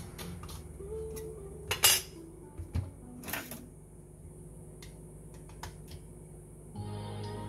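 Small metal parts and tools clinking and clattering, scattered light clicks with two louder clatters about two and three and a half seconds in, over a steady low hum.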